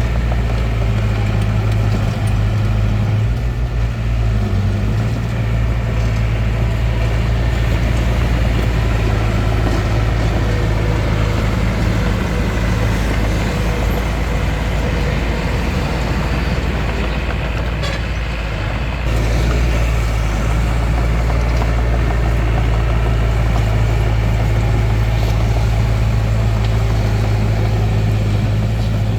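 Bulldozer's diesel engine running continuously. Its low steady drone weakens for a while in the middle and comes back stronger about two-thirds of the way through.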